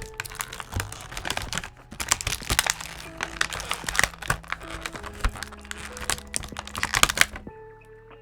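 Action-figure packaging being handled and opened: rapid clicks and crinkles of plastic and card, over background music. The handling stops about seven and a half seconds in, leaving only the music.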